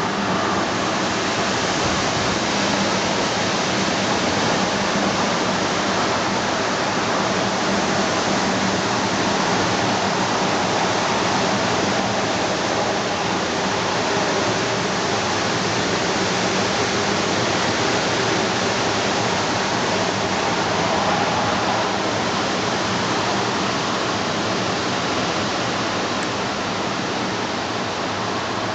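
Strong wind of about 8 m/s blowing steadily, a dense, even rushing noise without a break.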